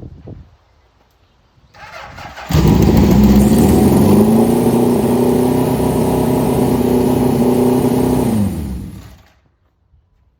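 Motorcycle engine starting after a brief lead-in, running at a steady speed for about six seconds, then switched off, its pitch dropping as it winds down.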